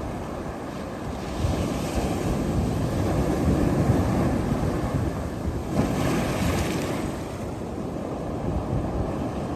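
Sea surf washing onto a beach, with wind buffeting the microphone as a low rumble. The hiss swells twice, about two seconds in and again about six seconds in, as waves break.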